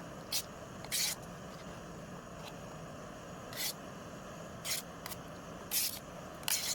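Pan of chili cooking on a portable butane gas camping stove: a steady hiss with short, sharp crackles every second or so.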